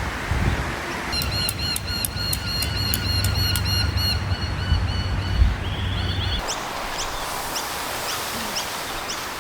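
Birds calling: a rapid, even run of repeated short arched notes, about four a second, with wind rumbling on the microphone. About six seconds in, the sound changes abruptly to a series of short, high, falling notes.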